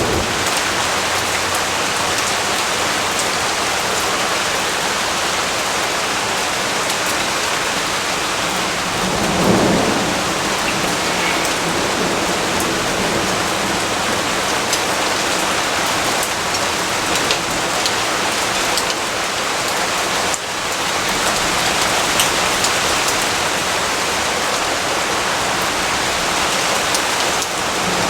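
Steady rain falling, a dense even hiss, with a low rumble of thunder swelling and fading about nine seconds in.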